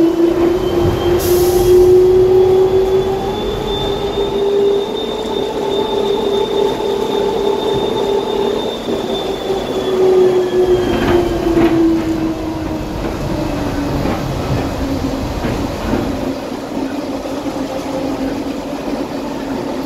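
DFW Skylink automated people mover train running along its guideway, heard from inside the car: a steady electric motor whine over a rolling rumble. The whine rises a little in pitch over the first few seconds, holds, then drops lower past the middle.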